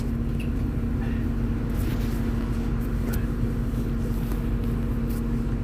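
Inside a MAZ-203 city bus under way: steady engine and road rumble with a constant low hum, and a few faint clicks and rattles.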